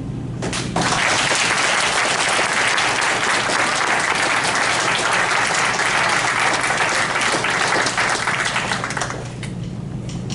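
Audience applauding, starting just under a second in and dying down to scattered clapping near the end.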